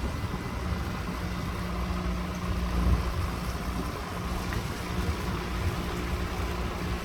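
An engine running steadily at a constant pitch, over a low rumble.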